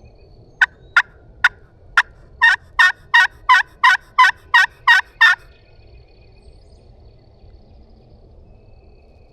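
Turkey call imitating a hen: four short, sharp clucks, then a quick string of about nine loud yelps, each breaking between two pitches, stopping about five seconds in. It is run to make a gobbler answer.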